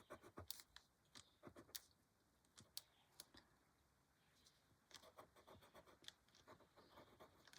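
Faint scratching of a coloured pencil stroking across paper: quick strokes for about two seconds, a pause with only a few ticks, then strokes again from about five seconds in.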